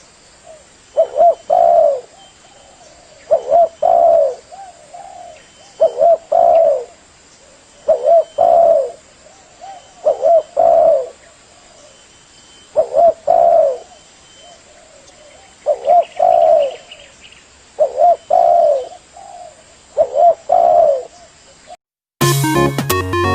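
Spotted dove (terkukur) cooing: the same short phrase of a few low coos repeats about every two and a half seconds. Near the end the cooing stops and music cuts in abruptly.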